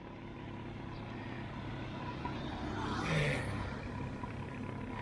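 Steady low road rumble of a motor vehicle passing, growing louder to a peak about three seconds in and then easing.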